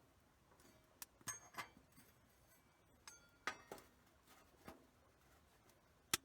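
Faint, scattered clinks and knocks of hard objects, about eight in all, several ringing briefly after the strike; the sharpest comes near the end.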